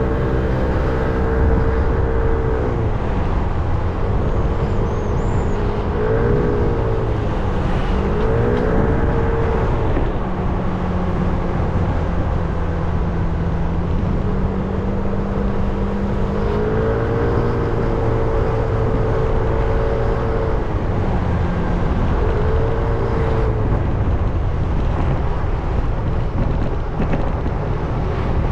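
300cc motorcycle engine under way, its note rising and falling again and again as the throttle opens and closes through the gears, over a steady rush of riding wind and road noise.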